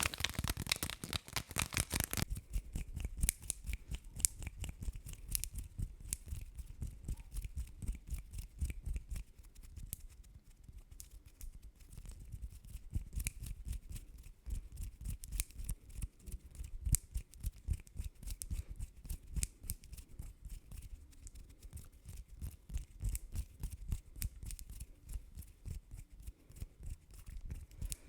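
Fast ASMR triggers close to the microphone: a rustling rub that stops about two seconds in, then rapid, uneven tapping and clicking with soft low thumps.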